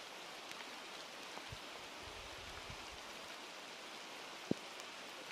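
Steady rain falling, an even hiss with scattered individual drops, and one sharp louder tap about four and a half seconds in.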